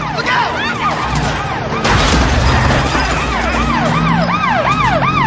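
Police sirens wailing in quick rising-and-falling sweeps, several overlapping, over a low engine rumble. A brief rush of noise about two seconds in.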